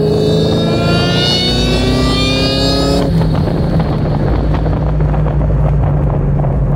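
2003 Ford Mustang SVT Cobra's supercharged 4.6-litre V8 pulling hard, heard from inside the cabin: a rising engine note with a high whine climbing with it. About three seconds in the rising note cuts off sharply, leaving a steady low drone.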